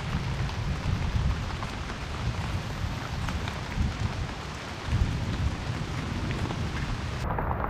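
Rain falling and pattering on a large banana leaf held overhead as an umbrella, with scattered drop ticks over a steady low rumble.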